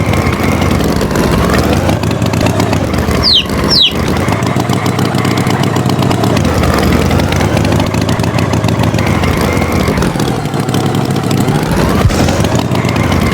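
Tractor engine running, its pitch rising and falling slowly as it revs up and down. Two short high falling peeps come in quick succession about three and a half seconds in.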